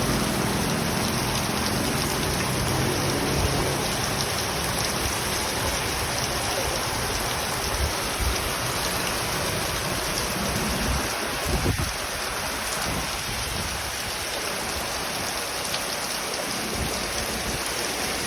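Steady heavy rain making an even hiss. There is a low rumble in the first few seconds and a brief louder sound about twelve seconds in.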